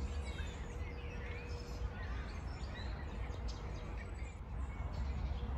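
Several songbirds chirping and singing in short, scattered calls over a steady low background rumble.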